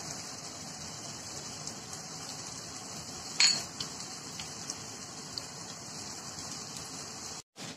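Chicken, onions and oil sizzling steadily in a frying pan, with one short click about three and a half seconds in.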